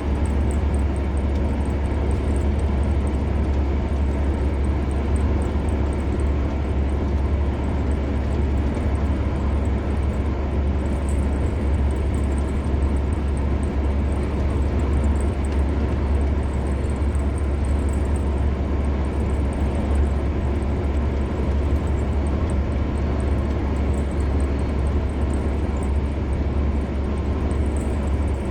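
Steady road noise of a car cruising on an expressway: an even tyre hiss over a strong low rumble, with no change in pace.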